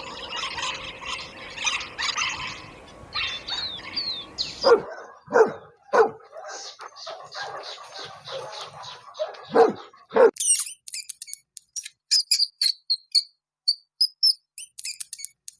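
A run of animal calls: about five seconds in come short, sharp dog barks lasting several seconds, then a steady series of short, high-pitched insect chirps with silence between them.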